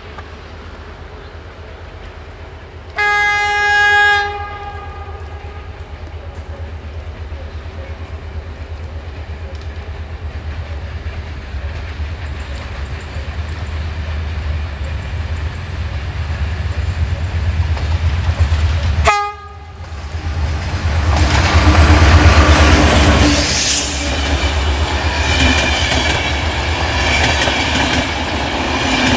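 GM diesel locomotive hauling a passenger train sounds its horn for about a second, about three seconds in, over a low rumble as it approaches. Near the two-thirds mark there is a second, very short horn note, then the locomotive passes close and is louder. Its coaches follow, rolling by with wheel clickety-clack over the rail joints.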